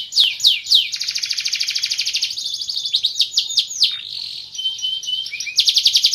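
Domestic canary singing: a series of quick falling whistled notes, then a fast even trill, more falling notes, a buzzier passage and a fast trill again near the end.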